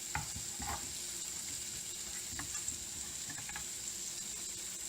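Paneer cubes frying in shallow oil in a pan, a steady sizzle with scattered crackles and a few scrapes of stirring.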